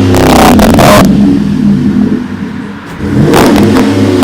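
GMC Sierra pickup's engine revved hard through its exhaust, easing back about a second in and dropping low, then revved again near the end.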